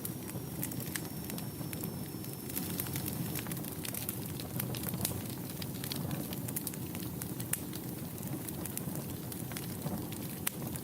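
Fire crackling in a fireplace: a steady low rumble of flames with frequent sharp crackles and pops. A faint high whistle, falling slightly in pitch, runs through the first few seconds.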